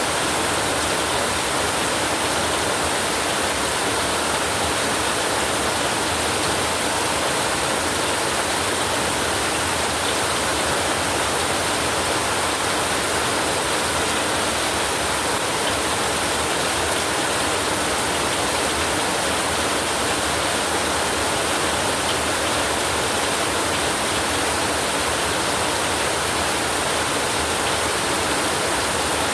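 Heavy rain drumming on a tin roof: a dense, steady hiss with no break or thunder.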